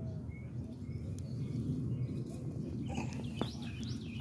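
Birds chirping: a run of short, evenly spaced chirps, then louder, higher calls near the end, over a low steady rumble.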